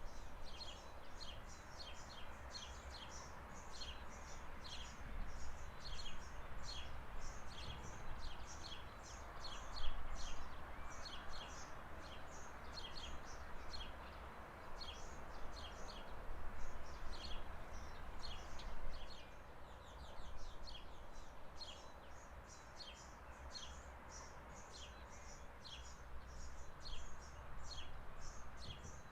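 Birds chirping: a rapid run of short, high, downward-sliding chirps, several a second, continuing throughout over a steady low background noise.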